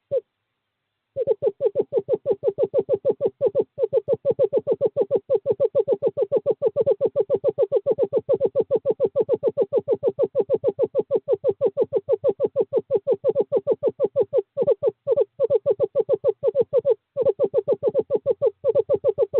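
Male screech owl giving its long trill, a fast run of even notes held on one pitch, going on for many seconds with a few short breaks: a courtship call to the female.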